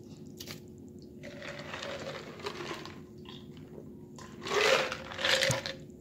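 Close-up sounds of a person eating: chewing and wet mouth noises, with two louder bursts near the end, over a faint steady hum.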